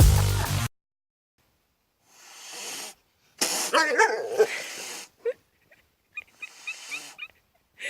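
Electronic dance music with a heavy beat cuts off under a second in. Then a pet animal vocalises: a soft noisy sound, a longer cry with wavering pitch, and a quick series of short high-pitched calls near the end.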